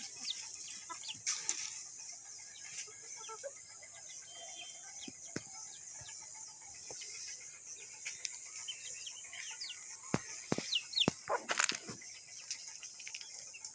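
Desi chickens clucking and peeping over a steady high hiss, with a flurry of wing flaps and sharp scuffles about ten seconds in.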